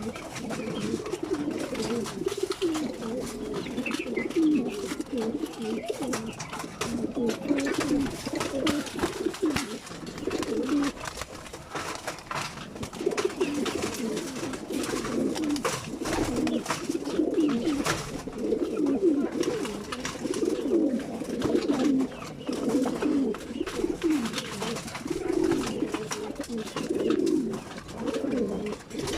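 Many racing pigeons cooing at once, a continuous overlapping chorus of low calls, with scattered small clicks and taps among them.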